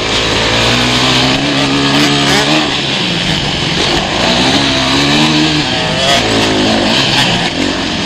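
Motocross bike engines revving hard, their pitch repeatedly climbing and dropping as the bikes accelerate and back off. More than one bike is heard at once.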